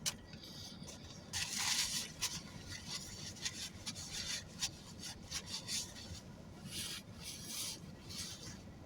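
Eating noises close to the microphone: a man chewing a sandwich amid crinkly rustling. The loudest rustle comes about a second and a half in, followed by scattered short crackles.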